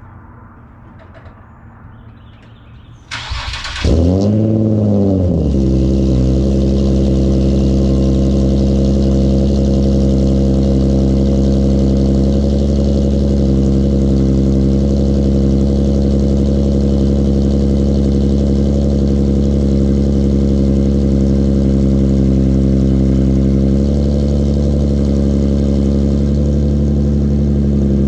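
Cold start of a VQ37VHR V6 breathing through a custom titanium single-exit exhaust with high-flow cats. About three seconds in the starter cranks briefly, the engine catches with a short rev flare that rises and falls, then it settles into a steady, loud cold high idle that eases slightly near the end.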